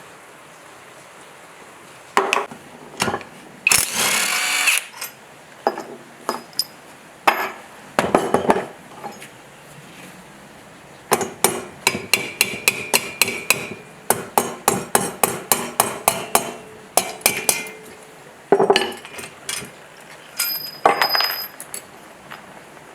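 Hand tools working on metal while a wrecked generator engine is taken apart: scattered clanks and a short scraping burst, then a long run of quick hammer taps at about four or five a second, and a few more knocks near the end.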